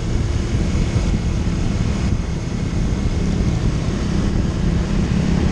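Motorcycle engine running steadily while riding, mixed with wind rushing over the helmet microphone.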